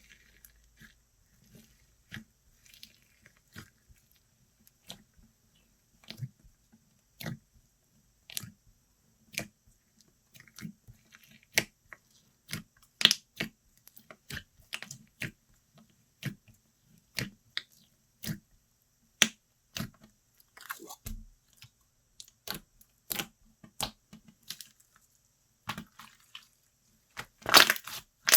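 Slime being squeezed and poked by hand, making a series of sharp popping clicks about once a second, closer together in the middle. A louder crackling burst comes near the end.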